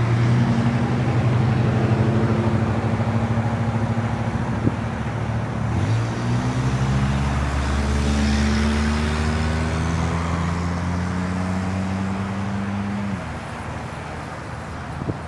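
GO Transit commuter train's diesel locomotive accelerating, its engine running loud and steady. The engine note steps up in pitch about six seconds in, then drops away near the end.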